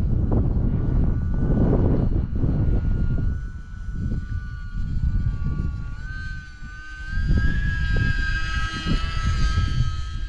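Small electric RC plane's motor and propeller whining overhead, the pitch shifting with throttle and rising a little after the middle. Gusty wind buffets the microphone throughout.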